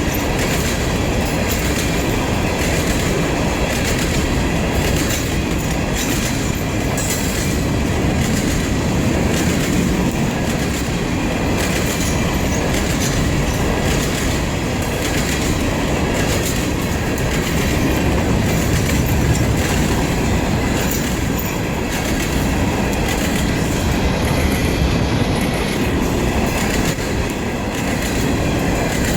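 Freight train cars rolling past at steady speed: a continuous rumble of steel wheels on rail with repeated clicking over rail joints and a faint steady high wheel squeal.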